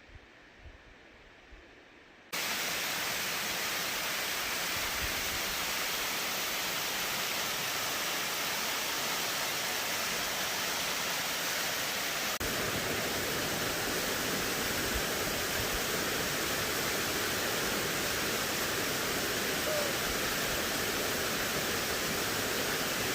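Waterfall: falling water gives a steady rush that starts abruptly about two seconds in after a faint moment. It gets fuller in the low end about halfway through.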